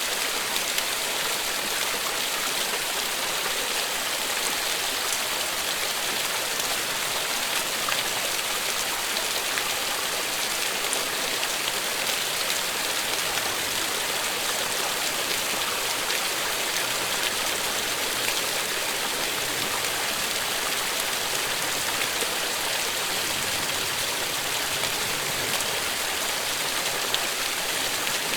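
Steady, continuous rain, an even hiss with faint scattered drop ticks.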